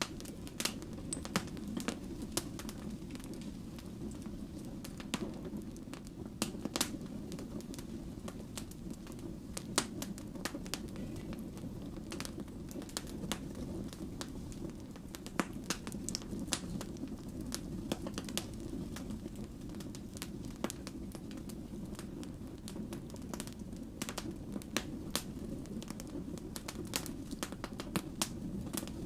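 Burning firewood crackling and popping, with sharp snaps at irregular intervals over a steady low rumble of flames.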